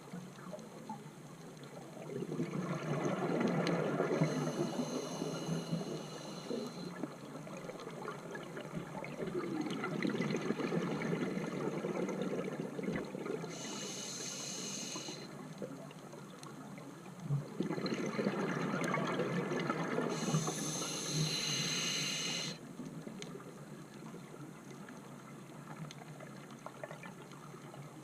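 Scuba diver breathing underwater through a regulator: three breaths, each a high hiss from the regulator and a swell of bubbling exhaust, over a steady underwater background.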